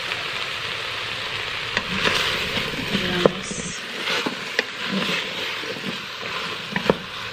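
Chicken and vegetables sizzling in the stainless steel inner pot of an electric pressure cooker while a wooden spoon stirs them, with a few sharp knocks of the spoon against the pot.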